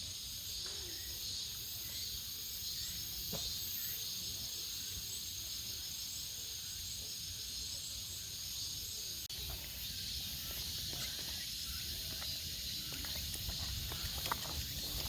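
Steady high-pitched chorus of insects, cicadas and crickets, with a few footstep clicks near the end.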